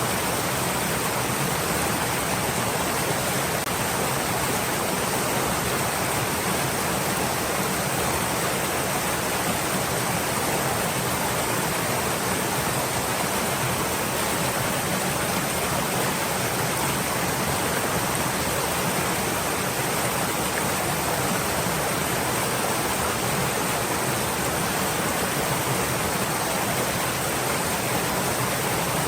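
Stream water flowing, a steady even rush with no changes or distinct splashes.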